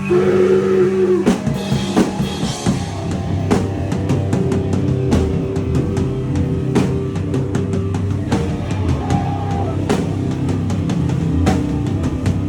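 Live powerviolence band playing loud rock: guitar and bass under fast, dense drumming, the drums coming in about a second in after a held note.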